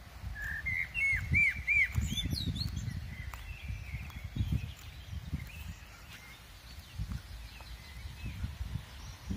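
A songbird calling: a quick run of arched chirping notes in the first few seconds, then a few fainter calls, over an uneven low rumble on the microphone.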